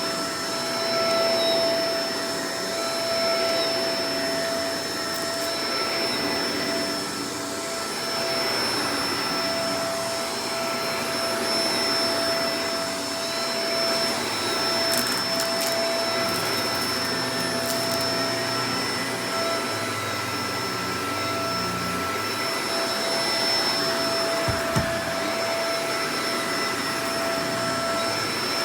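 Shark Professional Powered Lift-Away DLX (NV586) vacuum cleaner running steadily, its motor giving a constant whine over the rush of air. There is one brief low knock near the end.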